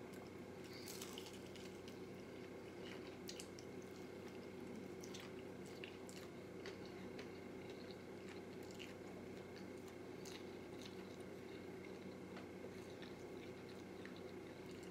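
Mouth sounds of someone eating a fried chicken wing: faint, irregular crackly clicks of chewing and biting into crispy skin, over a steady low hum.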